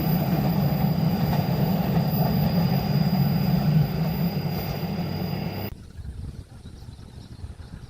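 Train rolling past at speed, a steady heavy rumble of wheels on rail with a thin steady high squeal above it. The sound cuts off suddenly about six seconds in.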